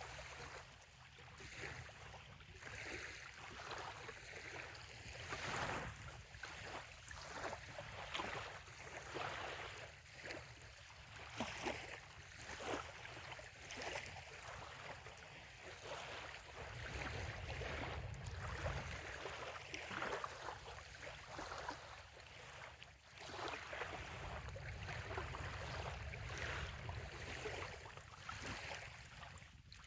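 Small bay waves lapping and splashing irregularly against a sandy shoreline, with a low rumble that swells up twice in the second half.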